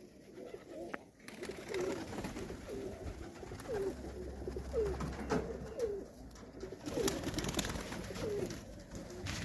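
Domestic highflyer pigeons cooing, a string of short repeated coos from several birds one after another.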